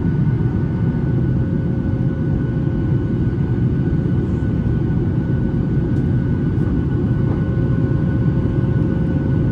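Steady cabin roar of a Boeing 737-800 in flight, heard from inside the cabin: the CFM56-7B engines and airflow make a constant low rumble with a few faint steady whining tones above it.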